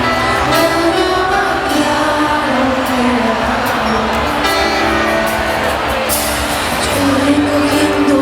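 Live band music from a concert, loud and continuous.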